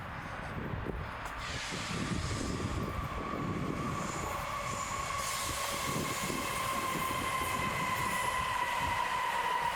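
Tram running on rails with a steady high wheel squeal that slowly falls in pitch, getting gradually louder as it comes closer.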